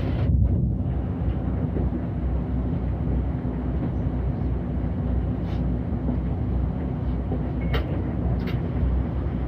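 City bus running along the road, heard from on board: a steady low engine and road rumble with a constant hum, and a few short clicks in the second half.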